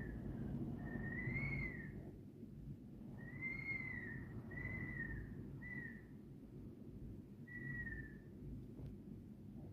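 Sea wind whistling in gusts: five high whistles, each a second or less, that rise slightly and fall away, over a steady low rumble of wind.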